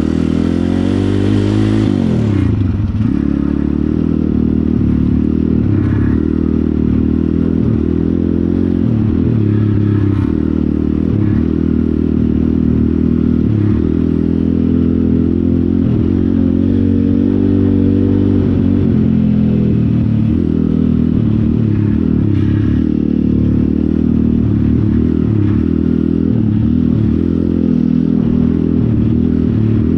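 Pit bike engine running steadily, its pitch dipping and rising now and then as the throttle changes.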